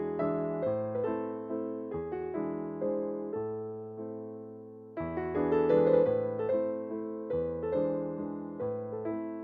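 Background piano music: a gentle keyboard melody with notes that strike and fade, dropping away briefly about halfway through before coming back louder.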